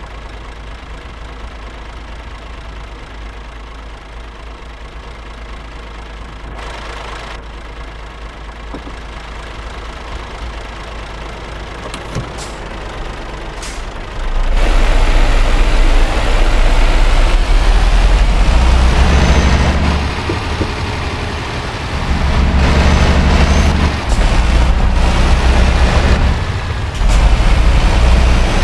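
Scania R560 V8 truck engine, hauling about 80 tonnes: running steadily at low revs at first, then about halfway through suddenly much louder as it pulls hard, with three brief dips in the sound.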